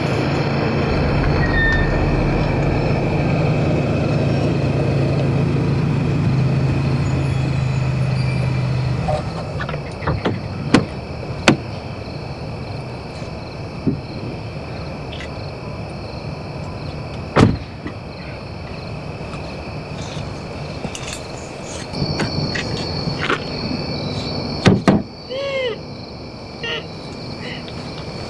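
A car engine running steadily, which stops about nine seconds in. After that come scattered sharp knocks and clicks, with crickets chirping toward the end.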